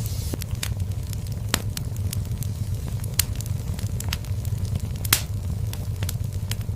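Wood fire in a fireplace crackling: a steady low rumble of flame under frequent sharp pops and snaps, one louder pop about five seconds in.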